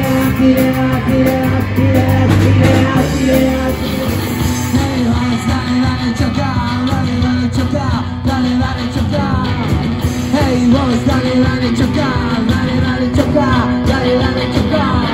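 A rock band playing live: electric guitar, bass and drums, with a voice singing.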